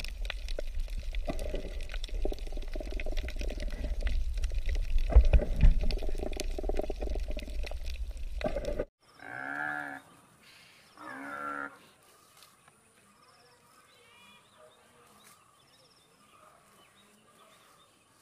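Underwater recording at a coral reef: a steady low rumble of moving water with many small clicks, cutting off suddenly about nine seconds in. Then a water buffalo gives two short calls about a second apart, followed by only faint sounds.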